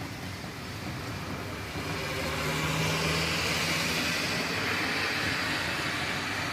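A car passing along a rain-wet street: the hiss of its tyres on the wet road swells about two seconds in, with a brief low engine hum, then slowly fades, over steady rain.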